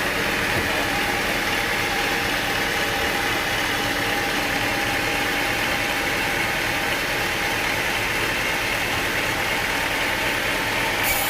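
Sawmill machinery running steadily, an engine-like drone at an even level. A high hiss comes in abruptly right at the end.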